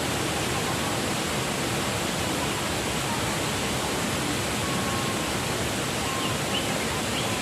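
Steady, even rushing noise with no gusts or breaks.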